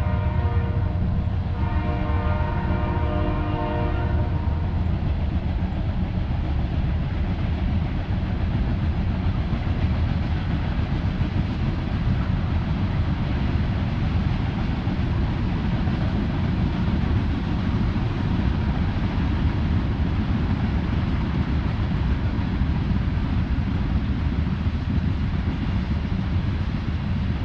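Train horn sounding a chord, a blast ending about a second in and a second long blast ending about four seconds in. The steady low rumble of the train rolling past carries on after it.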